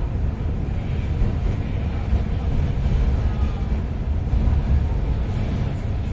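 Ocean Express funicular train running, a steady low rumble heard inside the carriage.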